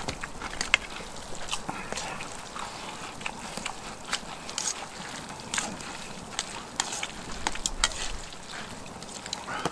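Noodles being stirred and mixed through thick yuni-jjajang sauce in a bowl, with wet sloshing and many small irregular clicks and taps.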